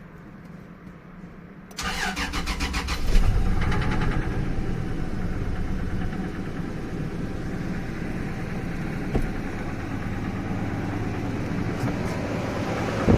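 Toyota Tundra 1GR-FE 4.0 L V6 engine cranking and starting about two seconds in, then settling into a steady idle.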